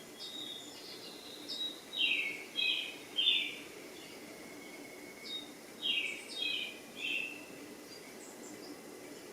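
Bird calls: short, high chirps falling in pitch, in two quick runs of three about four seconds apart, with fainter chirps between, over a steady low background noise.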